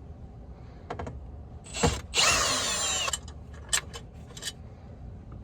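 A power drill-driver runs for about a second, around two seconds in, backing out a screw that holds the metal knee-blocker plate under the steering column, followed by a few small clicks.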